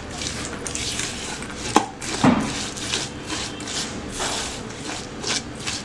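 A spoon stirring and scraping in a mixing bowl, working chopped nuts into butter and powdered sugar, with a couple of sharper knocks about two seconds in.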